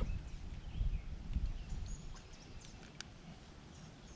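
Faint, scattered bird chirps over a low rumble that fades after about two seconds, with a single sharp click about three seconds in.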